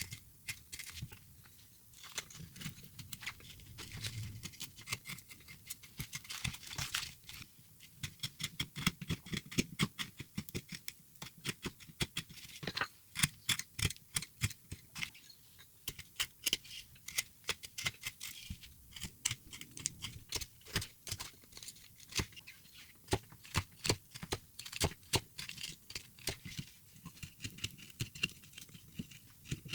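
Hand carving tools cutting into a wooden block: an irregular run of short, crisp cutting and chipping clicks as wood is pared away. The cuts are sparse at first and come thick and fast after several seconds.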